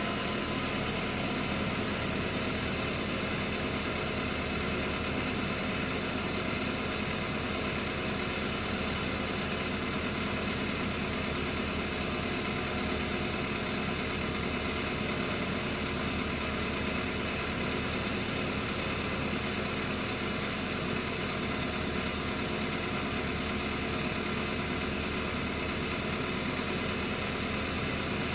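BMW F30 3 Series engine idling steadily, as it must while the car measures its oil level electronically.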